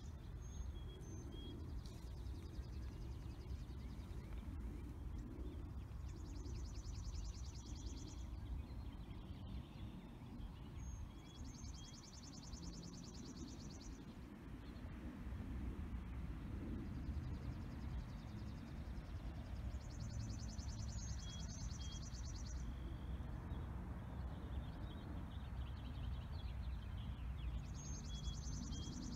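A songbird repeating a fast trill about two seconds long every several seconds, with a few short high chirps between, over a steady low rumble.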